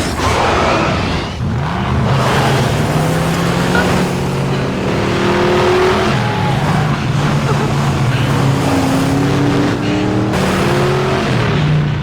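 Vehicle engines revving hard in a chase, pitch climbing and dropping again and again.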